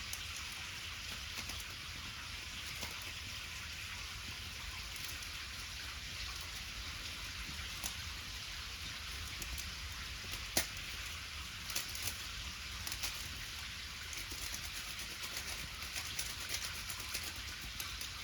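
Wood bonfire crackling: a steady hiss with scattered small pops, one sharp, loud pop about ten and a half seconds in, and denser crackling in the second half.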